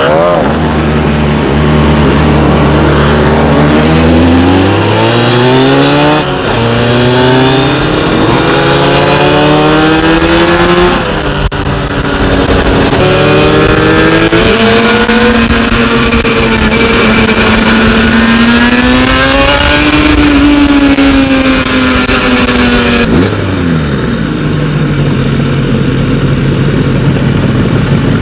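Suzuki RG500 Gamma's two-stroke square-four engine heard from on board, accelerating hard up through the gears. The pitch climbs and drops back about three times in the first dozen seconds, holds steady at speed, rises once more, then falls away as the bike slows, settling to a steadier lower note near the end.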